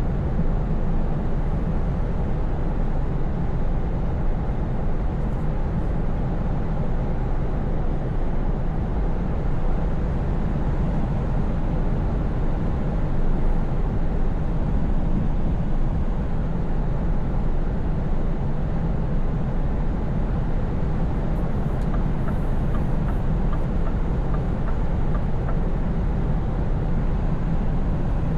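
Scania V8 truck engine running steadily at cruise, a deep, even drone with road and tyre noise over it. A few faint ticks come in about three-quarters of the way through.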